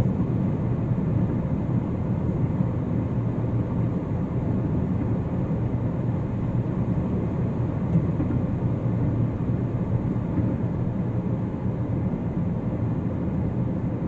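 Steady road noise inside a moving car: a constant low rumble of tyres on a concrete road surface together with the engine at cruising speed.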